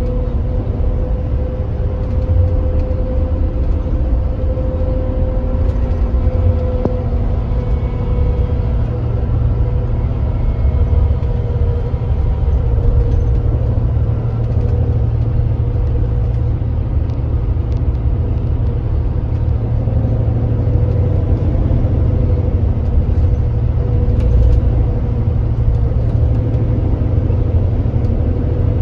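Kia Granbird Sunshine coach's diesel engine and road noise running steadily at highway cruising speed, a deep even rumble with a faint steady whine above it.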